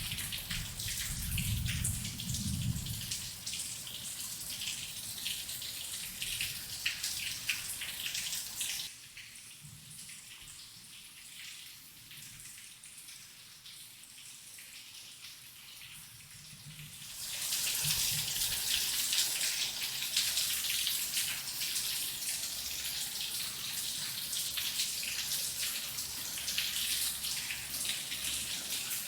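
Heavy rain falling, with a low rumble of thunder dying away in the first few seconds. Near the middle the rain eases to a lighter patter for about eight seconds, then comes back heavy.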